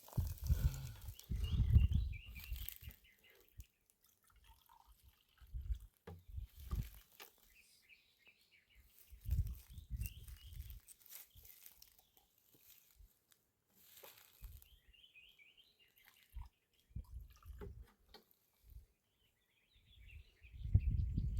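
Birds chirping faintly and on and off, with intermittent low rumbles and thuds in between, loudest near the start.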